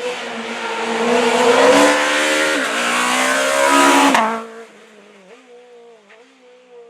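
Rally car passing hard under throttle, its engine note climbing, with a brief dip about two and a half seconds in as it shifts gear. The sound drops away suddenly after about four seconds, leaving a fainter engine note fading into the distance.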